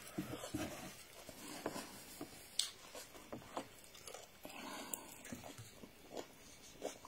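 A person chewing a mouthful of rice and meat: soft, faint mouth noises with scattered small clicks.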